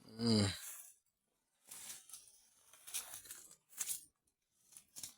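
A short voice-like sound at the very start, then a series of irregular crunching and rustling noises, a few separate bursts spread through the rest.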